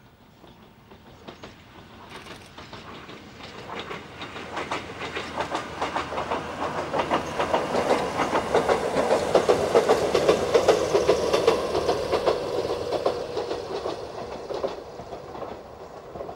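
Kōnan Railway 7000-series electric train passing, its wheels clacking rhythmically over the rail joints. The sound grows louder to a peak about ten seconds in, then fades as the train moves away.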